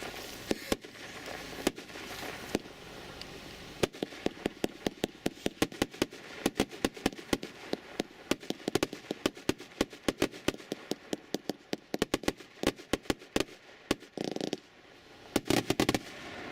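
A 160-shot 30 mm firework cake firing its shells: scattered bangs at first, then a rapid run of several bangs a second, ending with a short hiss and a final quick cluster of bangs.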